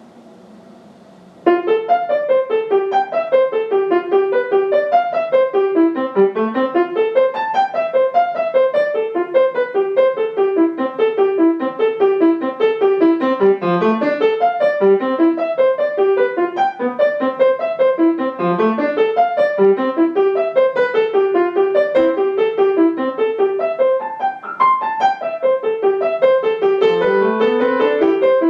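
Solo piano playing a quick piece of short staccato and accented notes in repeated falling figures, coming in about a second and a half in after a faint held sound, with a rising run near the end.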